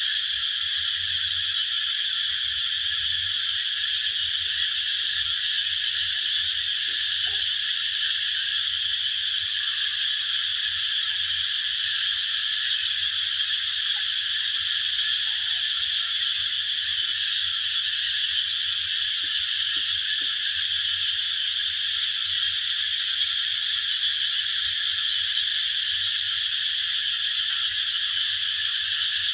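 Steady, unbroken chorus of high-pitched animal calls, dense and even throughout, with a faint low hum beneath.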